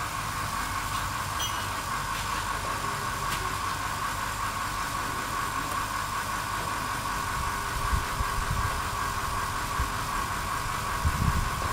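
An engine running steadily at idle, with a constant whine over the hum.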